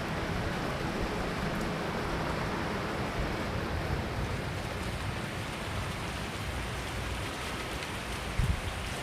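Heavy rain falling steadily, an even hiss of rain on surfaces with a low rumble under it, and one brief low thump near the end.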